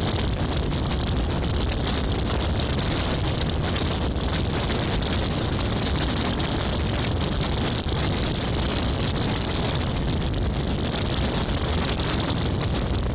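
Hurricane-force nor'easter wind blowing hard over the microphone: a loud, continuous rush with a heavy low rumble, unbroken by any lull.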